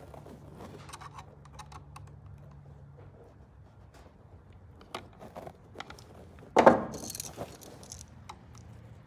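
Small clicks and light rattles of hands working with tools and electrical outlet parts, with one louder scraping rustle about six and a half seconds in.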